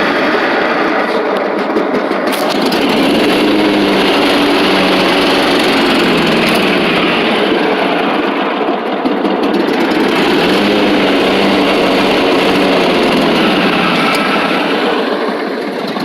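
Lawn mower's small petrol engine running steadily at a loud, even pitch, dipping slightly twice.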